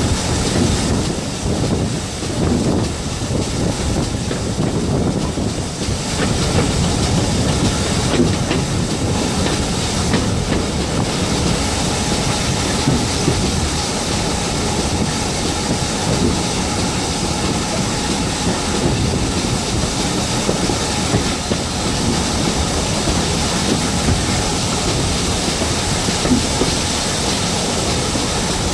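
Passenger carriage running along behind a GWR 56xx class 0-6-2T steam tank engine, heard from an open carriage window: a steady rumble of wheels on the rails with rushing wind and a few sharp clicks over rail joints.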